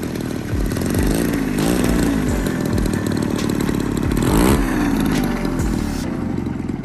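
Small two-stroke sprayer engine powering a home-built RC airplane, running hard with its pitch rising and falling again and again.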